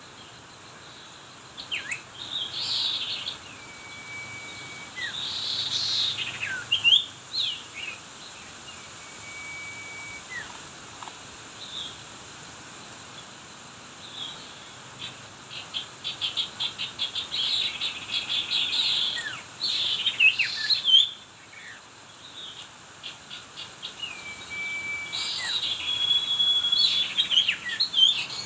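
Small birds calling: repeated sharp chirps and short held whistles, with runs of rapid trilling.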